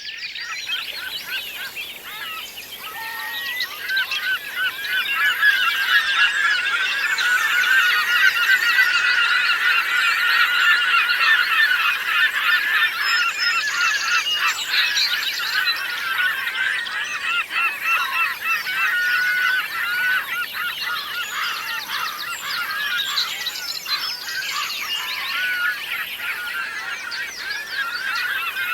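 A large flock of birds calling all at once, with many short overlapping honking calls. The chorus builds over the first few seconds and then stays dense.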